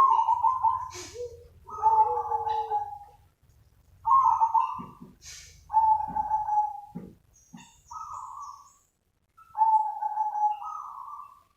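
Zebra dove cooing: about six short phrases of quick, rolling coos, each about a second long, with brief pauses between them.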